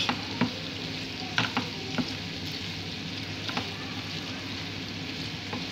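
Chopped liver and heart sizzling steadily as they fry in a pan, with a few light clicks scattered through it.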